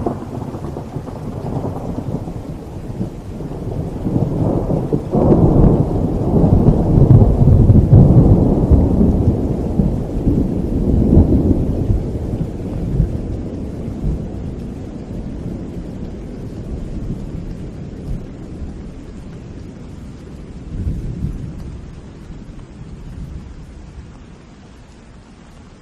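A long roll of thunder over steady rain. It builds to a loud rumble a few seconds in, then dies away slowly, with a smaller rumble again near the end.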